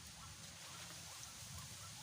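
White-breasted waterhens (ruak-ruak) calling: a faint run of short, repeated honking notes, about two a second.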